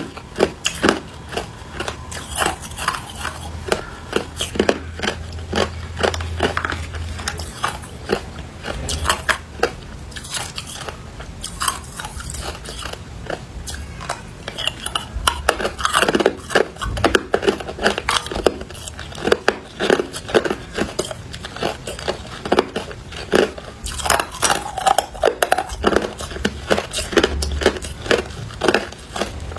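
Ice being bitten and chewed close to the microphone: a steady run of irregular sharp crunches and cracks.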